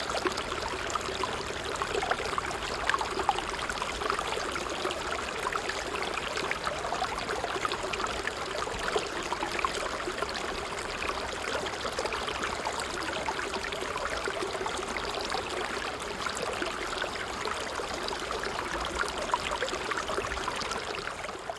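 Water trickling steadily, a continuous flow dotted with many small splashes, fading out at the very end.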